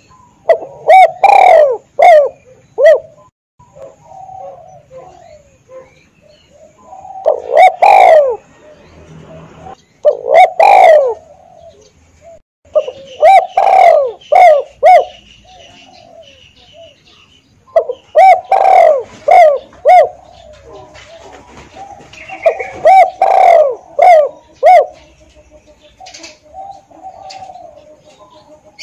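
Spotted dove cooing loudly in repeated phrases of several short notes, a phrase every few seconds, with softer coos between phrases. It is the call of a decoy dove.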